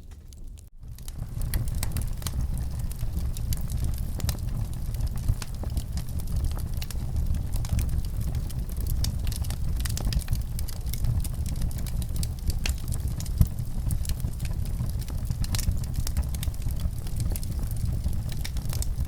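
Wood fire in a fireplace crackling: many small irregular pops and snaps over a steady low rumble of the flames. It sets in after a short break about a second in.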